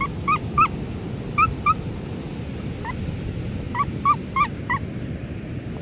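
Dog yipping and whining in short high-pitched yelps that come in quick runs of two to four, over a steady low rush of background noise.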